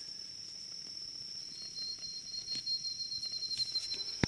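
Outdoor insect chorus: a steady high-pitched drone, joined about a second and a half in by a second, slightly lower insect trill that grows louder and stops near the end. A single sharp click sounds just before the end.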